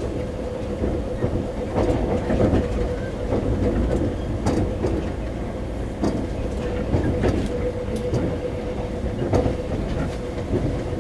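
Taiwan Railways EMU400 electric multiple unit running, heard from inside a passenger car. A low rumble and a steady hum are broken by irregular knocks of the wheels over rail joints.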